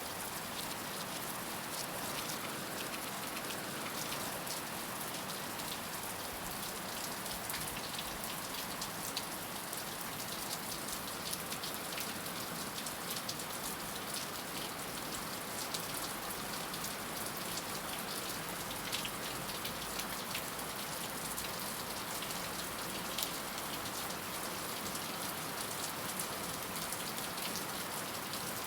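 Heavy rain falling steadily, a dense even hiss with the ticks of countless individual drops striking a surface.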